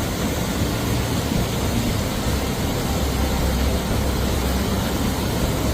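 Steady loud rushing noise of water in a storm, with a low steady hum underneath.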